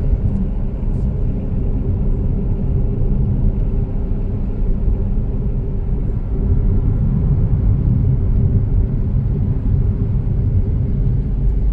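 Steady low rumble of a road vehicle in motion, with a faint steady hum above it.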